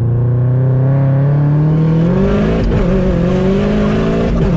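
Turbocharged EJ25 flat-four of a 500 hp Subaru WRX pulling hard under full throttle, heard from inside the cabin. The engine note climbs steadily, breaks briefly about two and a half seconds in, and breaks again near the end.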